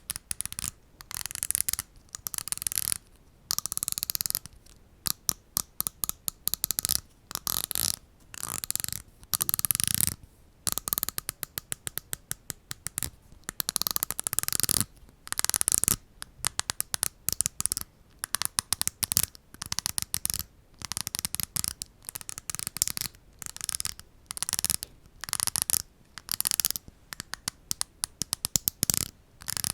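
Close-miked ASMR sounds: bursts of scratching and rubbing a second or two long with short pauses between them, broken by runs of rapid light tapping.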